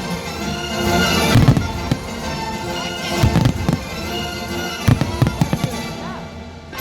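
Fireworks bursting in three clusters of sharp bangs and crackles, a second or two apart, over loud orchestral show music.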